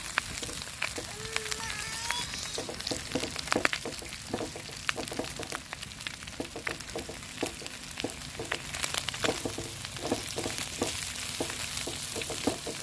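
Wood campfire crackling and popping, with irregular sharp snaps over a steady hiss.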